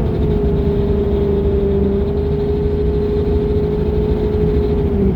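Ford Power Stroke V8 diesel pickup engine pulling under throttle, a low rumble with a steady whine held over it that stops near the end. The engine has logged a random misfire code and a cylinder-2 misfire code.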